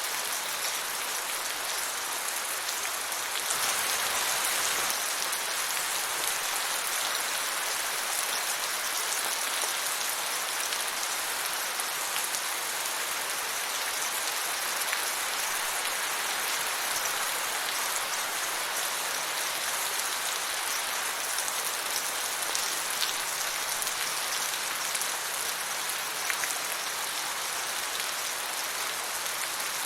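Steady rain falling, a dense even hiss of drops with a slight swell in intensity a few seconds in.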